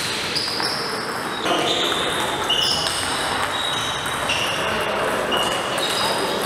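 Table tennis hall sound: occasional ball clicks and many short, high squeaks over a steady murmur of voices in a large room.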